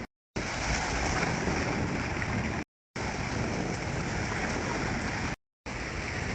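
Steady rush of ocean surf at a beach, cut off abruptly twice by short silent gaps.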